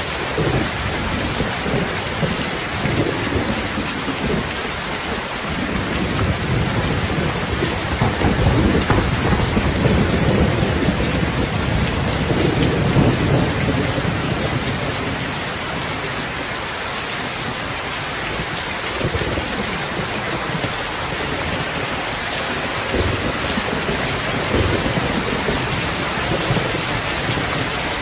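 Steady heavy rain with a low rumble of thunder that swells and rolls for several seconds in the middle, then fades back into the rain.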